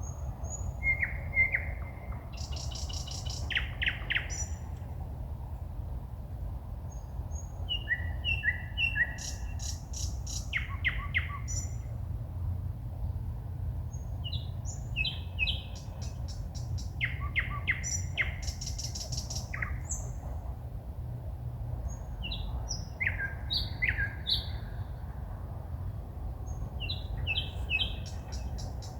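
A songbird singing at night in short, varied phrases every few seconds: whistled notes mixed with fast runs of sharp clicking notes and high thin notes. A steady low rumble sits underneath.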